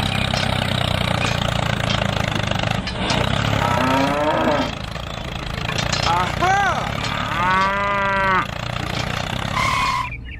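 Cattle mooing three times, each call rising then falling in pitch: one about four seconds in, a short one past six seconds, and a longer one near eight seconds. Under the first calls a small engine runs steadily, its hum fading about halfway. A short steady tone sounds just before the end.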